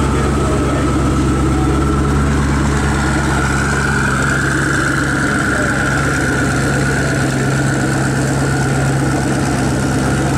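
Koenigsegg Agera's twin-turbo V8 running steadily at low revs as the car creeps away at walking pace, with no revving.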